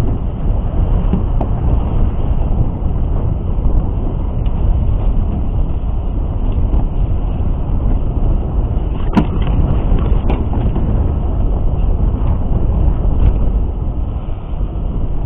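Steady, loud low rumble aboard a small fishing boat in rough water, with two short knocks about nine and ten seconds in.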